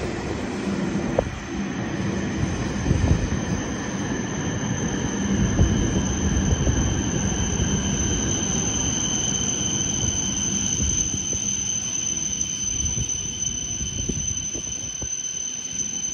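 E7-series Shinkansen train pulling slowly out of the platform: a low rumble of wheels on rail, with a steady high-pitched whine that grows louder as the train moves off. The rumble fades toward the end as the last car passes.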